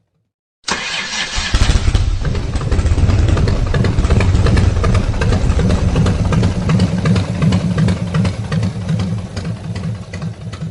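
Engine of a 1920 fire truck running loudly with a fast, uneven pulsing beat. It comes in abruptly after a moment of silence and eases off slightly near the end.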